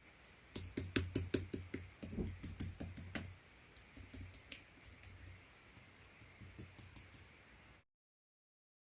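Slime being pressed and squeezed by hand, giving quick crisp clicks and pops, thick for about three seconds and then sparser, until the sound cuts out completely near the end.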